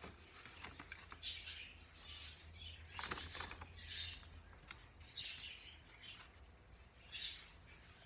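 Pet baby bird chirping: short high calls, about six of them spread over several seconds, with a few faint clicks between them.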